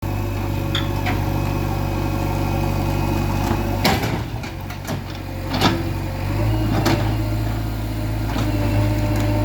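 JCB 3DX backhoe loader's diesel engine running steadily, its note dipping and changing for a couple of seconds in the middle before settling again. Several sharp knocks sound over it, the loudest about four and five and a half seconds in.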